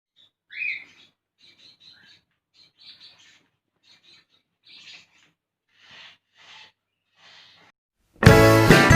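Pet birds calling in short separate chirps and squawks, one louder rising squawk about half a second in. Loud guitar music starts suddenly near the end.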